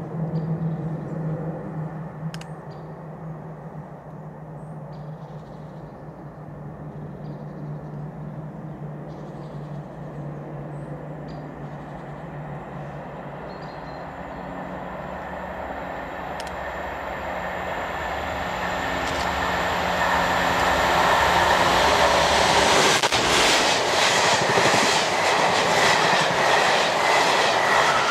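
A passenger train approaching along the line, its noise building steadily for about twenty seconds. Its coaches then pass close by with a rapid rhythmic clatter of wheels over rail joints.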